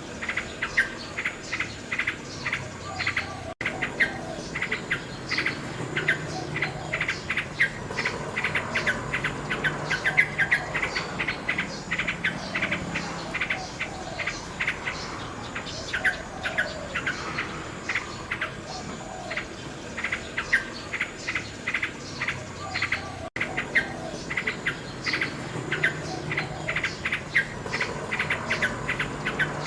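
Common nightingale singing: fast runs of repeated sharp notes and trills, phrase after phrase. The sound cuts out for an instant twice, about three and a half seconds in and again about twenty-three seconds in.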